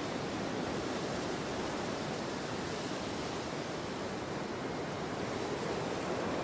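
Windstorm wind blowing steadily, an even rushing noise without distinct gusts.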